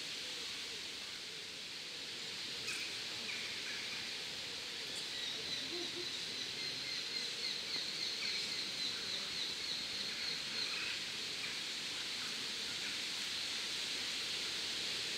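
Steady outdoor hiss with faint bird calls: a thin, rapid, high-pitched trill from about five to eleven seconds in, and a few short chirps scattered through.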